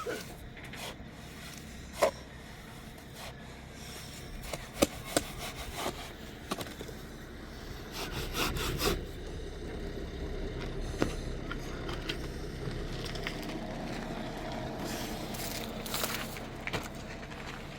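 Wood being worked by hand: scraping, rubbing strokes with several sharp knocks, the rubbing steadier in the second half.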